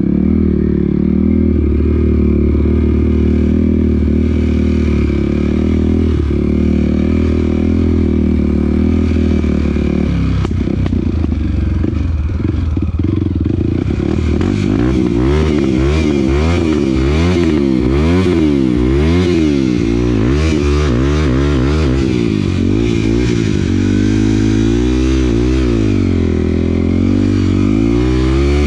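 Off-road motorcycle engine running at a steady speed, then, about ten seconds in, the revs rise and fall rapidly again and again as the throttle is worked. Clattering knocks come through during the rough stretch.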